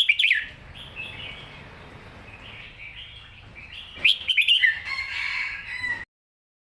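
Red-whiskered bulbul singing: a loud burst of short whistled phrases at the start and again about four seconds in, with softer chirps between. The sound cuts off abruptly about six seconds in.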